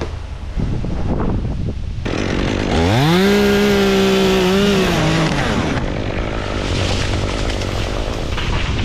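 Two-stroke chainsaw revved up sharply, held at full throttle for about two seconds, then let back down to idle.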